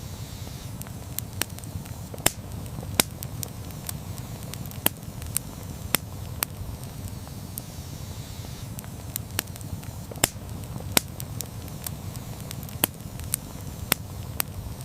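Campfire burning: a steady low rumble of the flames with sharp crackles and pops from the burning wood at irregular intervals, a few a second.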